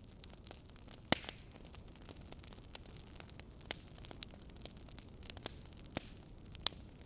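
Wood fire crackling in a fireplace: irregular sharp pops over a steady low hiss, the loudest pop about a second in.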